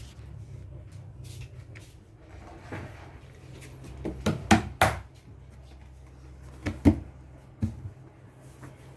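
A handful of sharp knocks and clatters, three close together about halfway through and two more a little later, over a steady low rumble.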